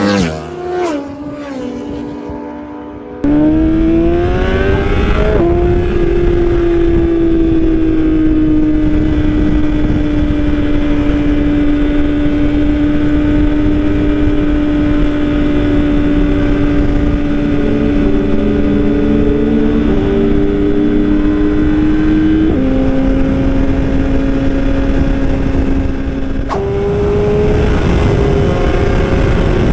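Superbike engine running hard at high speed. After a brief dip at the start, its note climbs and then holds one steady pitch for about fifteen seconds, over a dense low rumble of wind and road noise. The note steps down a little about 22 seconds in and rises again near 26 seconds.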